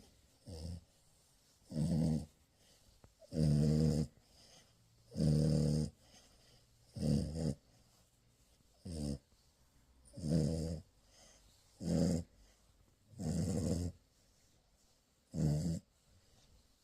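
French bulldog puppy snoring in its sleep, one buzzy snore with each breath. There are about ten snores, one every one and a half to two seconds.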